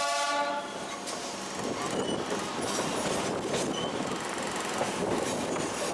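A train horn blast that ends about half a second in, followed by a train running on the rails with steady clatter and a few brief high wheel squeals.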